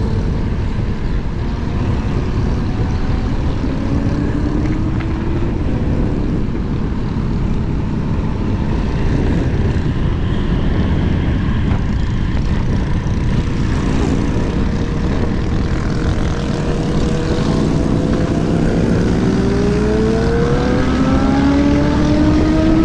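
Wind rushing over the microphone of a scooter rider moving at speed, a steady low roar. A motor's whine rises in pitch near the end as a vehicle speeds up.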